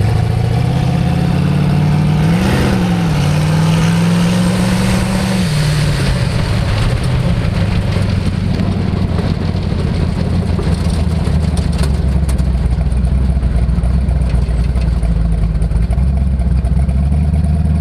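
Twin-turbo 440 V8 rat-rod engine running, revved sharply about two and a half seconds in, held at higher revs for a few seconds, then dropping back to a steady run.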